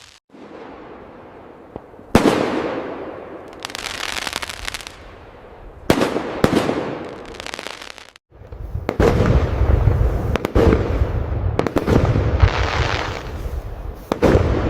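Aerial fireworks: single booms about two and six seconds in, each followed by crackling, then from about nine seconds a dense barrage of overlapping booms and crackles.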